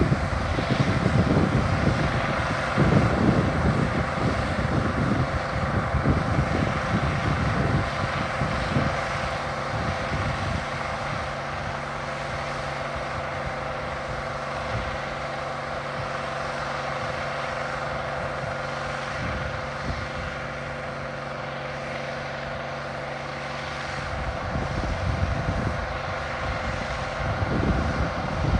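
A 1470 hillside combine running steadily during wheat harvest, a constant machinery drone with several held tones. Wind buffets the microphone heavily for the first ten seconds or so and again near the end.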